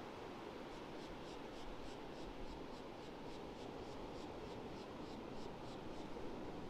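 Small birds chirping, a quick run of short, high, scratchy chirps at about three a second, over a steady rush of surf.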